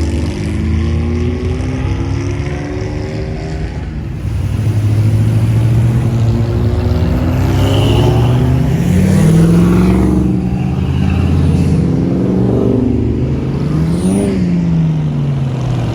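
Cars and trucks driving past one after another, their engines accelerating, with rising and falling engine notes. One vehicle passes close about 14 seconds in.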